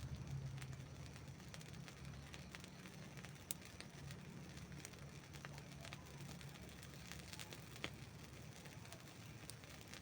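Wood campfire crackling faintly, with scattered small pops and two sharper snaps, about three and a half seconds in and near the end, over a low rumble that fades away.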